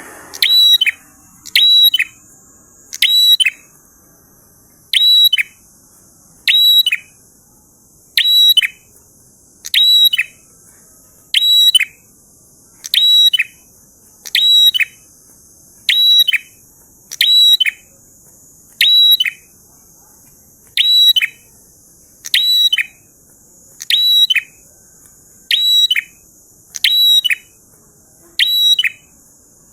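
A prinia (prenjak) calling persistently: the same short, high call repeated about every 1.7 seconds in a steady, even rhythm, over a faint high hiss.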